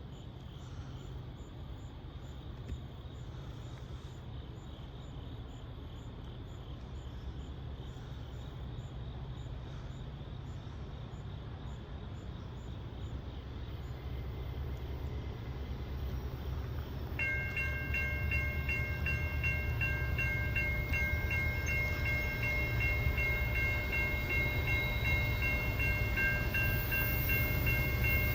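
Norfolk Southern diesel freight locomotives approaching, their low engine rumble growing steadily louder. About two-thirds of the way in, the lead locomotive's air horn sounds a steady chord and holds it to the end.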